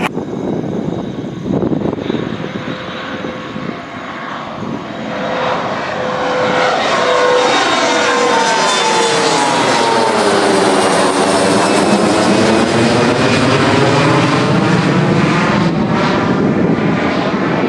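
Regional jet's turbofan engines at takeoff power. The sound grows loud about six seconds in and stays loud, with whining tones that sweep down and back up as the jet passes.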